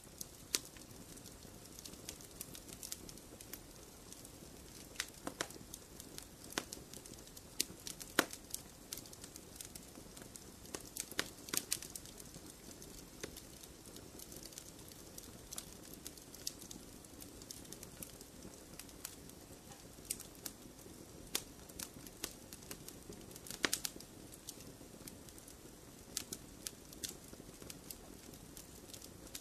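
Wood fire burning in a fireplace: a low steady hiss of flames with many sharp, irregular pops and crackles from the burning logs, a few louder snaps here and there.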